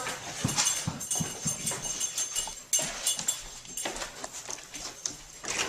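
A dog fetching a newspaper: a run of short clicks and scuffs as it moves about and handles the paper.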